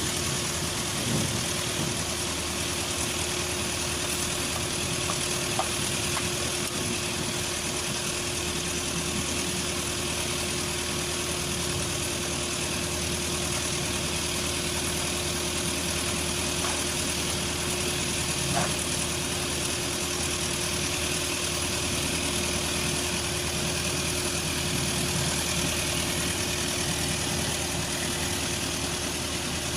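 An engine idling steadily with an even hum, and a faint click or two.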